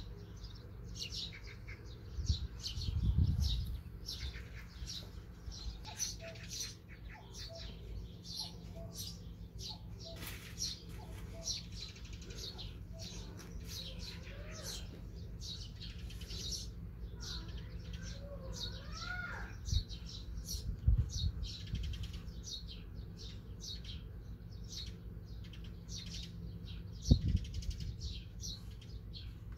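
Small birds chirping over and over, with a few calls that sweep up and down in pitch about halfway through. A few low thumps break in, the loudest near the end.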